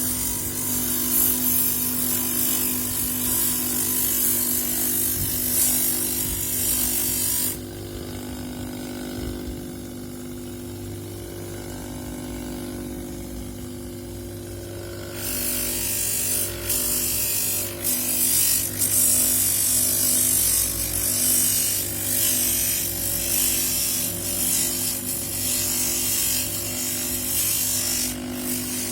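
An electric power tool used for polishing seashells, running steadily with a hum. A harsh, hissy grinding sound comes while a shell is held against it, drops away about a quarter of the way in, and returns about halfway through with uneven scraping.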